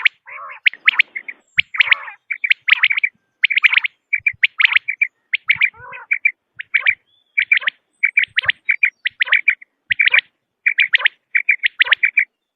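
Common quail calling: quick groups of sharp, clipped notes, repeated over and over with short gaps between groups.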